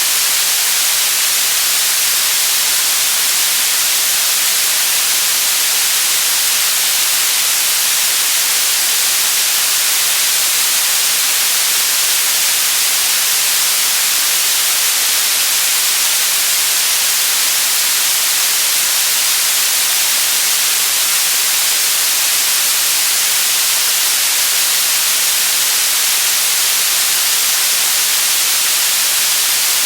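Synthetic white noise: a steady, loud, even hiss, brightest in the high end, that never changes.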